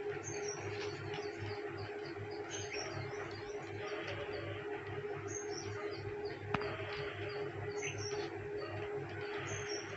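Birds chirping repeatedly, short high calls every couple of seconds, over a steady low hum, with a single sharp click about six and a half seconds in.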